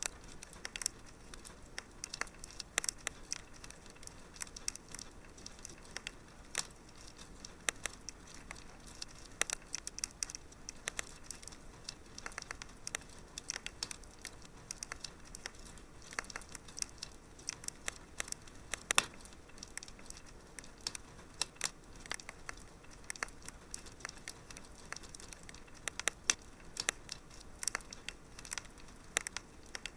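Wood fire crackling in a fireplace: irregular pops and snaps over a faint hiss, with one louder snap about two-thirds of the way through.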